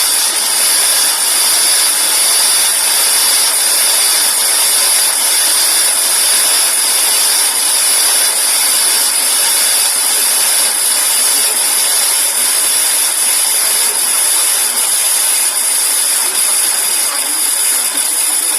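Single-group espresso machine's steam wand hissing steadily, loud and unbroken, with a high, even whistle-like edge.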